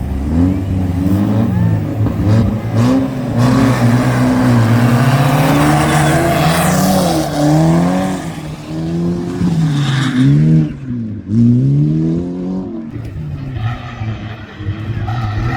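Racing car engines at full throttle, the revs climbing and dropping again and again over a steady low engine drone, with a louder rush of noise about halfway through.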